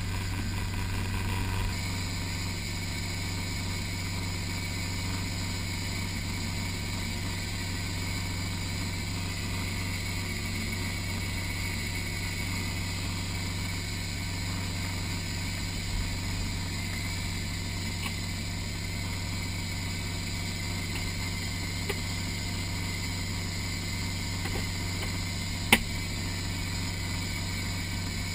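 Off-road 4x4's engine idling steadily, heard from inside the cab. A single sharp click sounds near the end.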